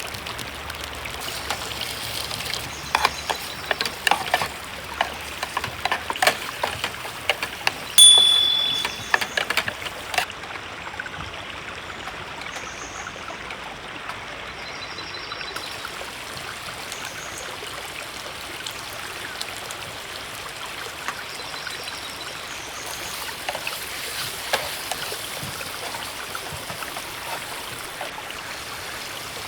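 River flowing steadily. A run of small clicks and knocks comes over it during the first third, the loudest a short ringing clink about eight seconds in.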